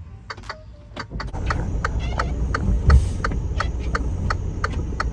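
Low rumble of highway traffic that builds about a second in and is loudest near the middle, over steady clicking about three times a second.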